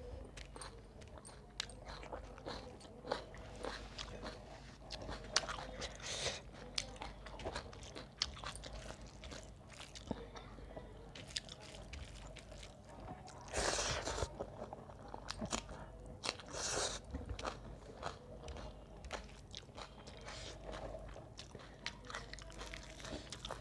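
Close-miked chewing and biting as a woman eats rice, dal and roast chicken wing with her fingers: a run of small mouth clicks and crunches, with a few louder crunching bites, the loudest about halfway through.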